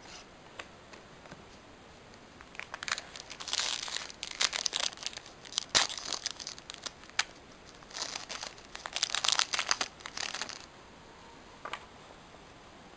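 A foil Pokémon booster pack wrapper being crinkled and torn open. The rustling comes in two bouts, about three seconds in and again about eight seconds in, with a few sharp clicks between them.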